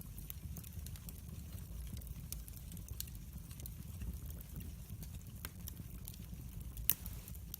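Wood fire burning in a fireplace: irregular sharp crackles and pops over a low steady rumble, with one louder pop near the end.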